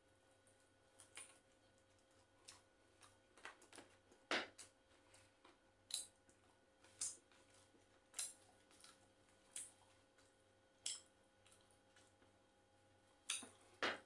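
Faint eating sounds of someone chewing chicken curry and Arabic flatbread (khubz) with his mouth open: short wet smacks and clicks at irregular spacing, about one a second, the loudest a little over four seconds in and at the very end.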